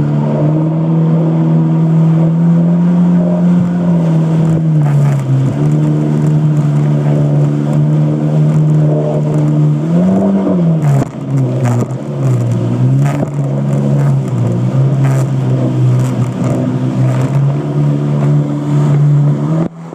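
Jet ski engine running under throttle, its pitch rising and falling several times as the rider speeds up and eases off, with a few short sharp hits of noise in the second half. The sound stops abruptly near the end.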